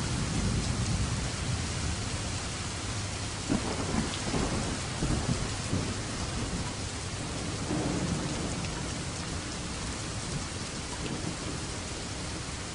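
Steady heavy rainfall with rolling thunder: low rumbles swell up a few times, strongest about four to six seconds in and again near eight seconds, then fade back under the rain.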